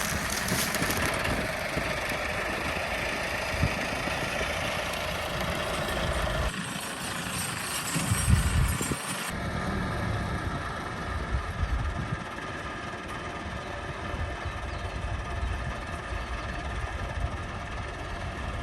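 Diesel tractor engine running steadily. The sound changes abruptly about six seconds in and again about nine seconds in.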